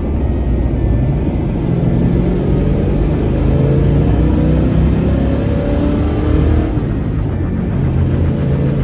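1972 Ford Gran Torino Sport's engine running under way, its pitch climbing as the car speeds up, dipping about two-thirds of the way through and climbing again as at a gear change.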